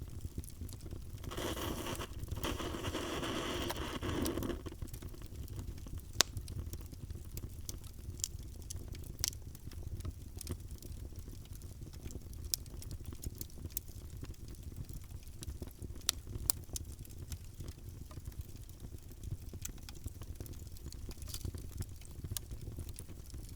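Fire burning in a fireplace, crackling: a steady low rumble of flame with scattered sharp pops, the loudest about six seconds in. Near the start, a hissing rush swells for about three seconds and then dies away.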